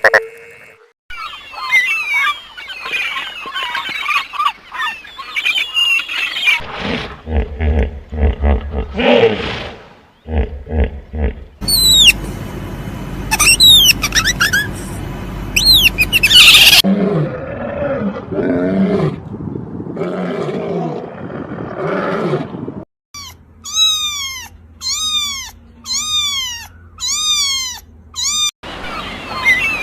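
A string of different animal calls following one another every few seconds, with high whistled calls that fall in pitch near the middle and, near the end, a run of about six repeated arching calls, roughly one a second.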